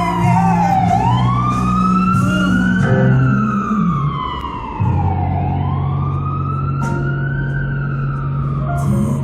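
Emergency vehicle siren wailing in slow rising and falling sweeps, over a steady low hum.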